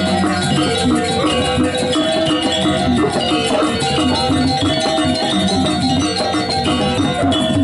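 Balinese gamelan playing continuously: a dense, fast web of struck metallic gong-chime and metallophone tones over a steady pulse.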